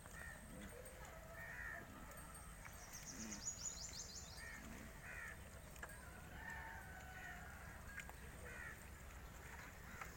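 Crows cawing, short calls about once a second, with a rapid high-pitched twittering from another bird a few seconds in. A low rumble runs underneath.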